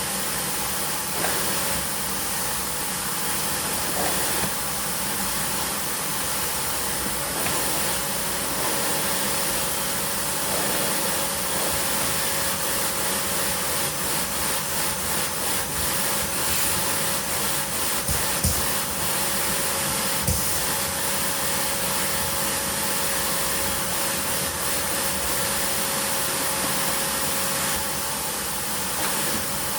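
Vacuum cleaner running steadily, a constant whine over its rushing noise, with a couple of light knocks about two-thirds of the way through.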